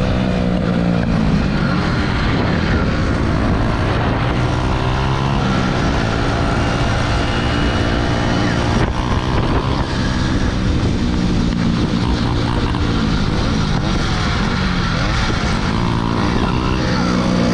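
Small motorbike engine running under way, its pitch rising and falling several times as the throttle opens and closes.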